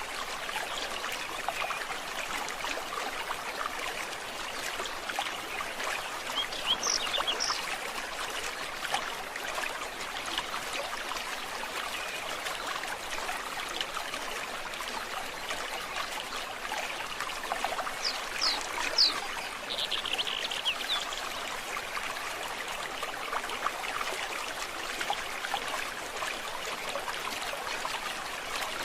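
A forest stream trickling and burbling steadily, with a few short high bird chirps about seven seconds in and again around eighteen to twenty-one seconds.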